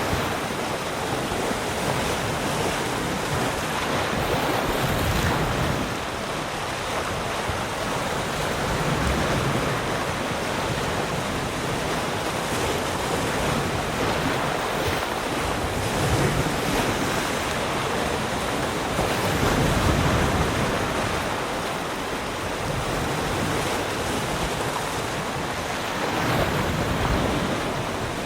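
Sea surf: waves breaking and washing in a continuous rushing noise that swells and eases every few seconds as each wave comes in.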